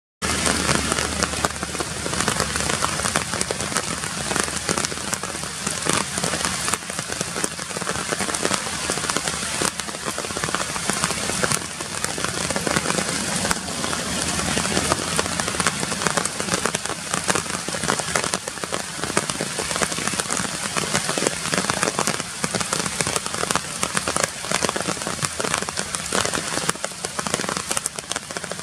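Steady rain falling on tree leaves: a constant hiss with many close drop hits throughout.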